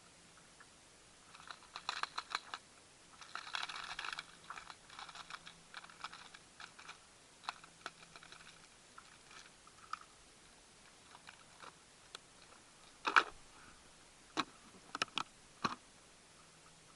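Irregular clicks and crackling rattles: two dense clusters in the first few seconds, then scattered single sharp clicks, the loudest about thirteen seconds in.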